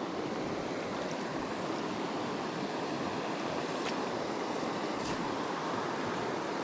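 Small creek waterfall rushing steadily.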